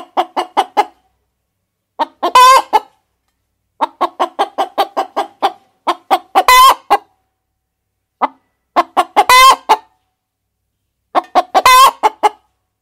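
A hen cackling: runs of quick clucks, each ending in a loud, drawn-out squawk, four times over.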